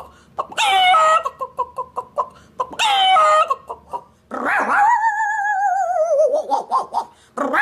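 A man imitating animal calls with his voice: two short calls that step down in pitch, then one long wavering call of about three seconds that slowly falls.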